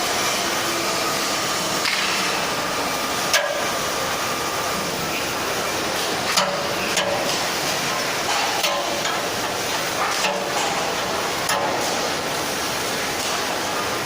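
Steady workshop noise with a few sharp metallic knocks or taps at irregular intervals, and faint voices in the background.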